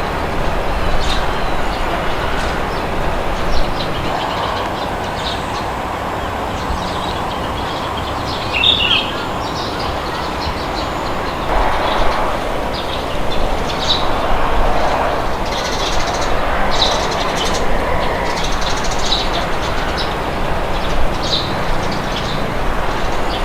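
Steady wind blowing with a low rumble, while small birds chirp now and then, more often in the second half.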